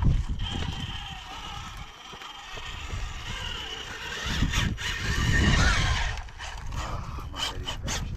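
Rock crawler's engine and driveline working with a wavering mechanical whine, while wind gusts rumble on the microphone, loudest at the start and again about five seconds in.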